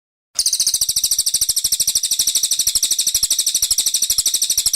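Brown cililin songbird singing a rapid, even, high-pitched trill of about a dozen notes a second. The trill starts and stops abruptly.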